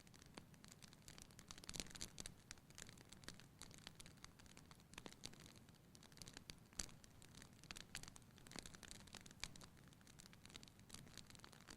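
Wood fire burning in a fireplace, crackling quietly: irregular small pops and snaps, a few a second, over a soft hiss of the flames.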